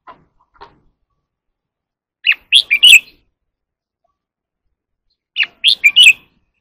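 Red-whiskered bulbul singing: a short phrase of quick, loud whistled notes, given twice about three seconds apart, with two faint soft notes just before.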